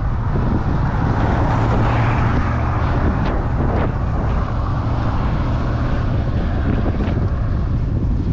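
Wind buffeting the microphone of a moving cyclist, over a steady low rumble of road or traffic noise.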